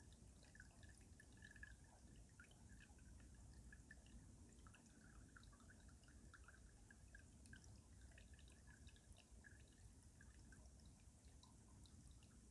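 Faint stream water trickling and dripping under winter ice, with many small gurgling drips over a low steady rush.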